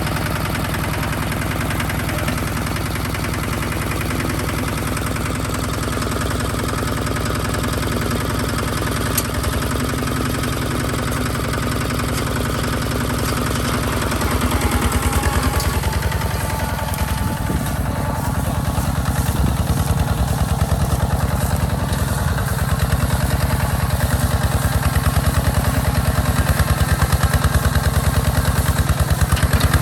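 Hinota HG Gold 155 DI tractor's diesel engine running steadily while plowing; about halfway through its low beat changes and it grows louder.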